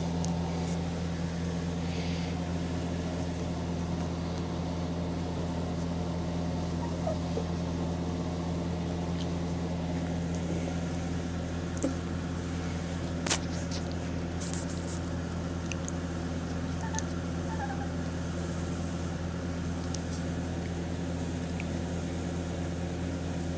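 A steady low machine hum, with a few faint clicks and one sharper click about thirteen seconds in.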